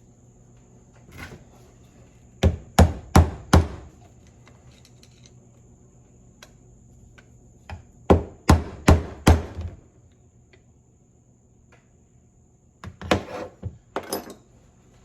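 Hammer blows on a 1978 Ford steering box during reassembly: two quick runs of four sharp strikes several seconds apart, then a looser cluster of knocks near the end.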